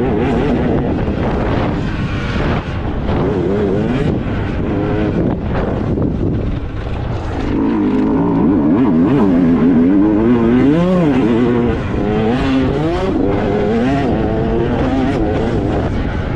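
Motocross bike engines revving, their pitch rising and falling again and again, with more than one engine heard at once.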